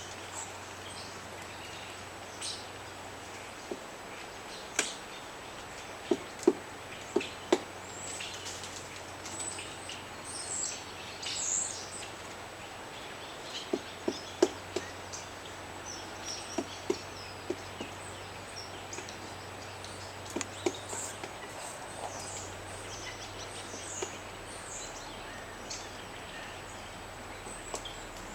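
Pileated woodpecker pecking at wood: sharp single knocks at irregular intervals, coming in short clusters of three or four. High, thin bird chirps come and go over a steady outdoor hiss.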